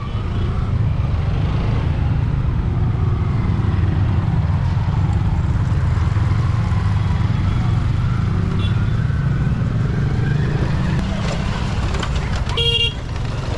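Motorcycle on the move, a steady low engine and wind rumble on the helmet-mounted microphone. A vehicle horn beeps once, briefly, near the end.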